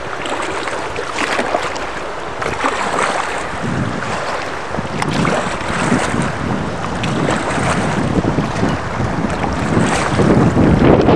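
River water rushing and splashing around a kayak, with wind buffeting the microphone; it gets louder about ten seconds in.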